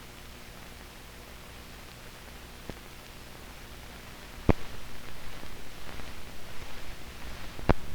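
Background hiss and a low hum from an old film soundtrack with no programme sound, broken by a faint click and then two sharp pops, one about halfway through and one near the end, with an uneven crackle running on after the first pop.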